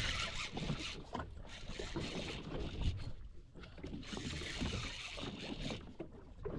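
Seawater splashing and slapping against a jet ski's hull, in uneven gusts with no engine tone.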